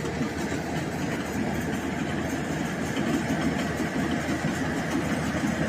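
Rice combine harvester running steadily in a paddy field, its engine and machinery a constant even noise.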